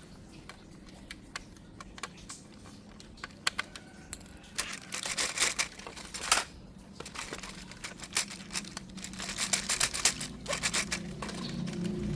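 Plastic toy packaging crinkling and tearing in quick irregular crackles as a toy is unboxed, heaviest in two spells in the middle and later part. A low tone starts up near the end.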